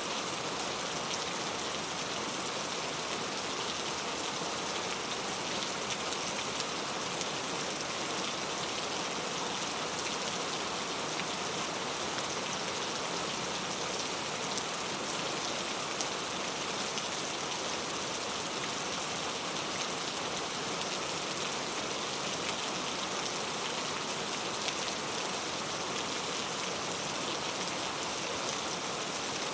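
Steady rain: an even hiss with a light patter of drops.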